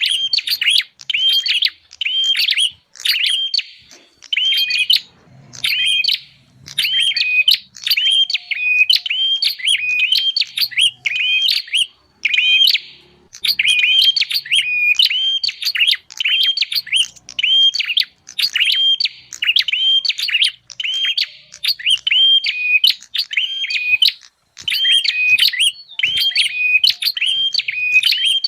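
Prinia (prenjak) calls played as a bird-lure recording: a fast, unbroken run of sharp chirps repeated several times a second.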